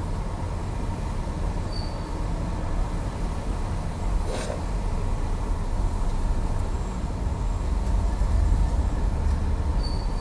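Seat Ateca with the steering being turned, over a steady low rumble from the running car, with one sharp click about four seconds in. This is the noise the car makes when the steering is turned.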